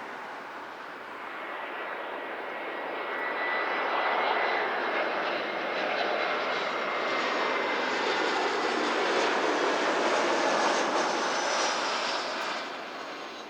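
Jet airliner's engines as it passes by: the roar builds, holds loud with a high turbine whine whose pitch drops as the plane goes past, then fades near the end.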